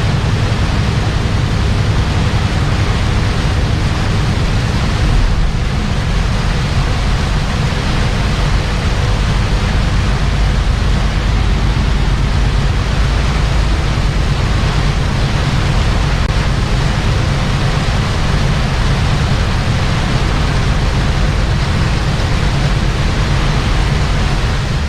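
Heavy rain and road noise heard inside a moving semi truck's cab: a steady hiss over a low engine rumble.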